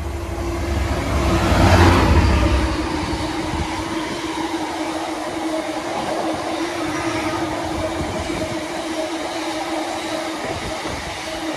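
A train running through the station on the rails, loudest about two seconds in with a deep rumble, then a steady rumble and clatter of wheels on track with a constant hum underneath.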